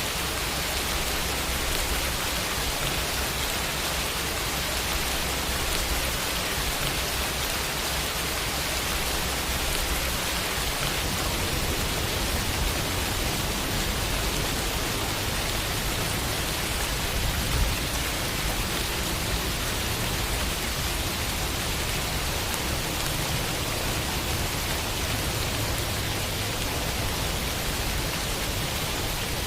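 Steady summer rain falling on a window, an even hiss of drops, with one slightly louder drop or tap about two-thirds of the way through.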